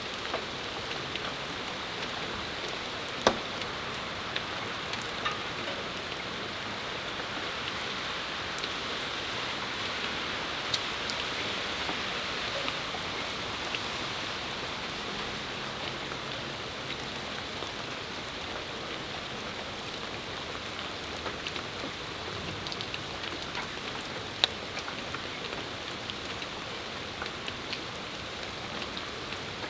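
Steady rain falling, a continuous hiss with the separate ticks of drops striking close by. Two sharper drop hits stand out, one about three seconds in and one about twenty-four seconds in.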